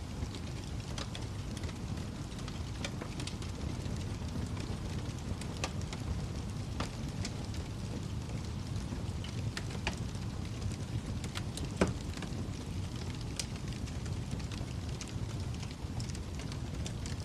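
Wood fire burning in a fireplace: a steady low rumble of flames with scattered crackles and pops, one sharper pop about twelve seconds in.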